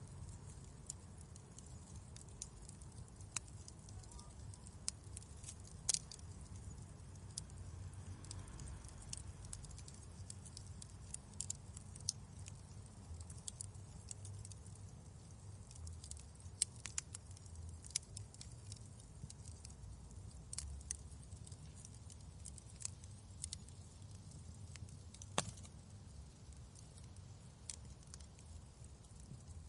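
Wood fire burning in a fireplace: a low steady rumble of the flames with irregular sharp crackles and pops, several louder snaps among them.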